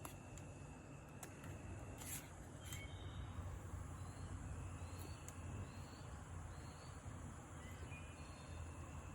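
Faint bird chirps, short and scattered, over a steady low hum. A few light clicks come in the first few seconds.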